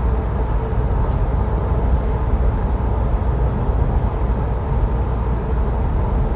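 Steady road and engine rumble inside a moving car's cabin at cruising speed.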